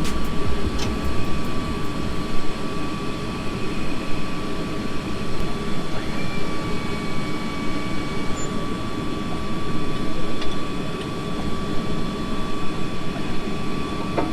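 Bombardier Global 6000 business jet's turbine running with a steady high whine over a dense rumbling noise.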